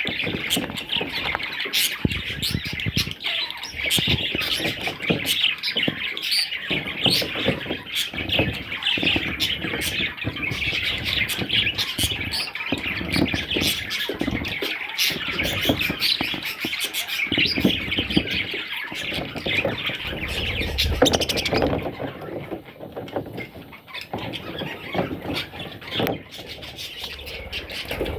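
Budgerigar chicks calling: a dense, continuous chatter of short high squeaks and chirps, mixed with small knocks and rustling. The calling thins out for a few seconds about three-quarters of the way through.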